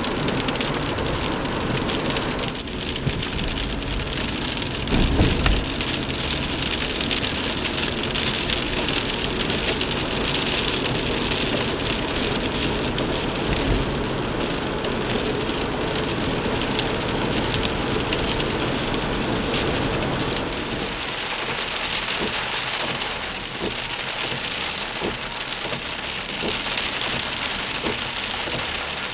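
Steady rain falling on a vehicle, with low engine and road rumble that falls away about two-thirds of the way through. A single low thud about five seconds in.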